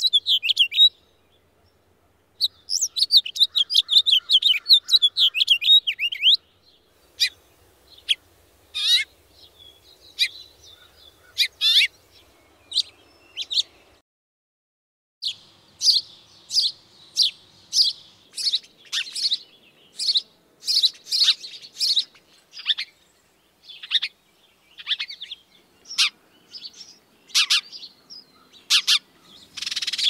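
Recorded calls of two different birds. First comes a fast, high chattering trill, followed by scattered sharp chirps. After a short pause, from about halfway, a house sparrow gives a steady series of single cheeps, one or two a second.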